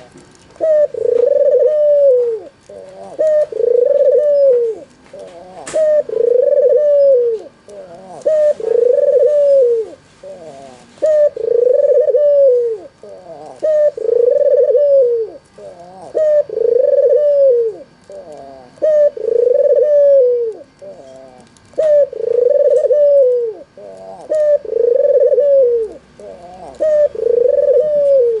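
White, red-eyed (albino) puter dove, a domestic ringneck dove, cooing over and over. Each coo is a rolling note that rises and then falls, repeated about every two seconds, with faint high chirps between the coos.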